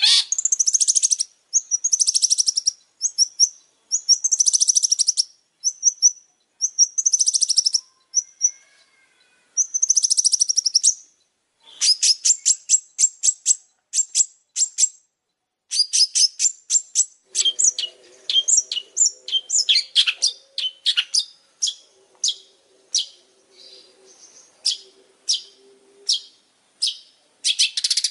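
Long-tailed shrike (pentet) in full song: phrases of fast, high, chattering notes, each about a second long with short pauses between them, giving way after about twelve seconds to quick runs of separate sharp notes.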